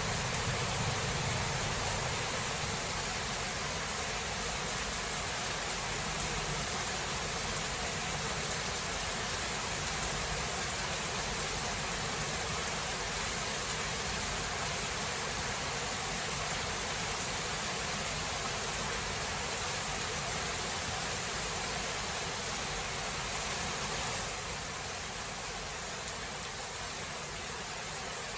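Steady rain falling in a thunderstorm, an even hiss, with the last low rumble of thunder fading out in the first couple of seconds. The rain gets a little quieter near the end.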